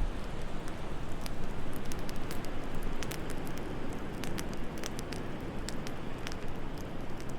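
Wood fire in a fireplace crackling, with frequent irregular sharp pops, over a steady rushing background of wind.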